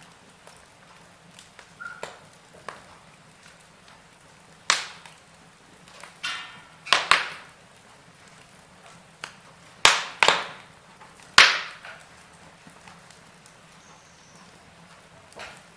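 Wood fire burning in a fireplace: a faint steady hiss broken by scattered sharp crackles and pops, the loudest of them bunched in the middle few seconds, with a short sputter among them.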